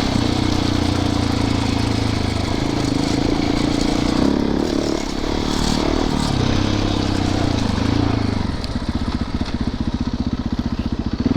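Dirt bike engine running on a trail ride, the revs rising and falling with the throttle. About three quarters of the way through it drops to a slower, evenly pulsing run as the throttle closes.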